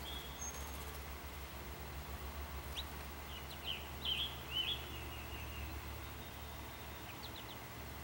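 Birds chirping, a brief run of quick high chirps about three to five seconds in, over a steady low outdoor hum.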